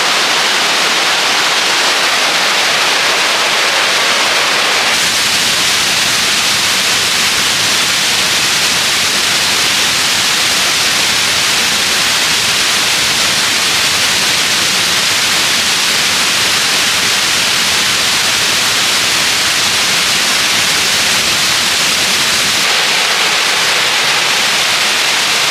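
Steady, loud rush of a waterfall's falling water. Its tone shifts slightly about five seconds in and again near the end.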